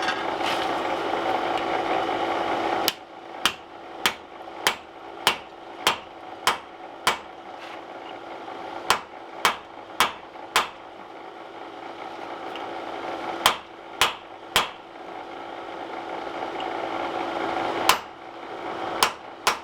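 Hand hammer striking a steel forming tool to drive it into steel, in runs of sharp ringing blows about one every 0.6 s: eight, then four, then three, then two near the end. A steady hum runs underneath and is louder for the first three seconds, before the blows begin.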